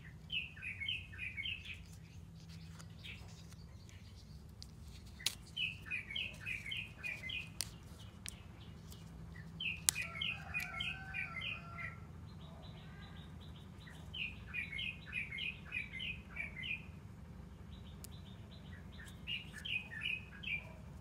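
A songbird singing a phrase of rapid, high chirps lasting one to two seconds. The phrase comes five times, every four to five seconds.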